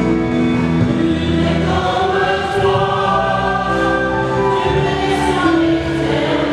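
Church choir singing a hymn, many voices holding long notes together.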